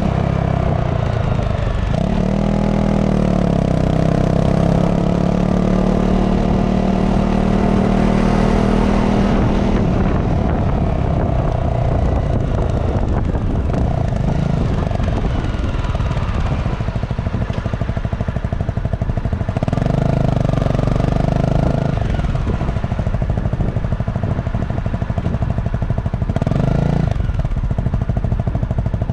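Honda CRF250 Rally motorcycle's single-cylinder four-stroke engine running through its stock exhaust. The engine pitch dips and rises near the start, then holds fairly steady, with two further changes later on.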